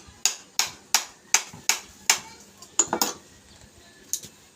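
A tool knocking repeatedly on a part: a run of seven sharp blows about three a second, then a few more spaced out near the middle and end.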